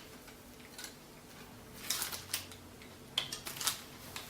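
Light metallic clicks and taps of an Allen key working the pinch bolts on a bicycle's head stem, coming in small irregular clusters about two and three and a half seconds in.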